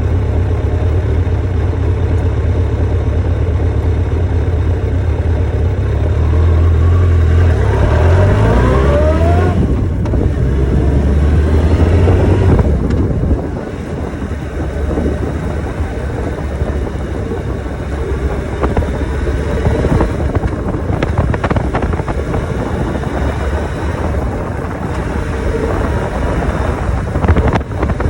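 Motorcycle engine running, its pitch climbing in a few rising sweeps about seven to ten seconds in as the revs go up. Around thirteen seconds in it drops to a somewhat quieter, rougher, noisier running sound.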